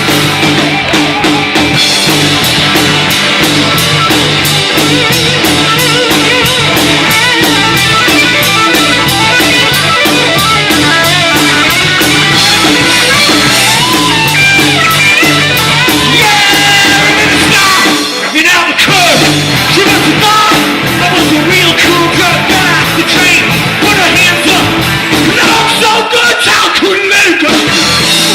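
A rock band playing live at full volume, with a fast, driving drumbeat throughout. The playing drops out briefly about two-thirds of the way through.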